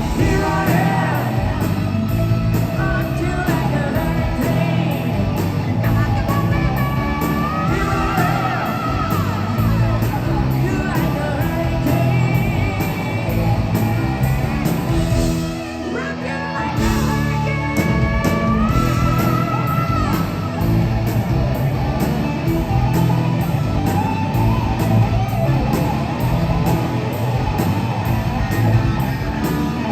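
Hard rock band playing live, with electric guitars, bass, drums and singing. About halfway through, the bass and drums drop out for a second or two before the full band comes back in.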